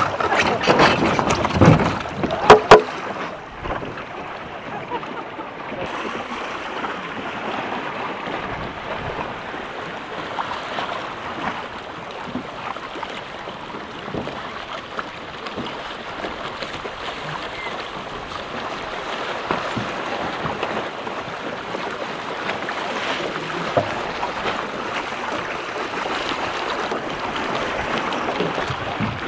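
Steady wind noise and water rushing around a sailing dinghy, with two sharp knocks about two and a half seconds in.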